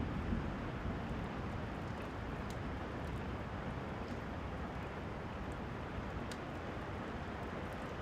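Steady rain, with the low rumble of a passing thunderclap dying away at the start. A few faint ticks sound now and then over the rain.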